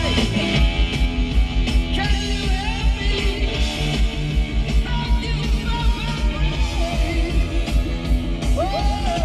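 Rock music with electric guitar and a quick, steady drumbeat playing through the 2000 Camaro SS's factory Monsoon stereo.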